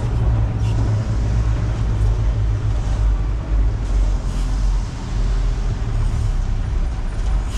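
Concrete mixer truck's diesel engine running with a steady low rumble, under an even hiss of water spraying from the truck's wash hose onto work shoes.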